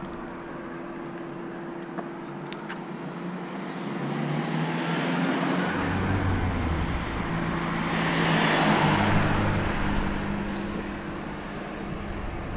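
A motor vehicle approaches and passes close by on the road. Its engine and tyre noise grow from about four seconds in, are loudest around eight to nine seconds, then fade.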